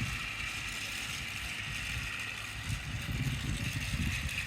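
Battery-powered Thomas Trackmaster toy engine running along toy track with a faint steady whine from its small electric motor, its wheels and eight trailing trucks rumbling and rattling.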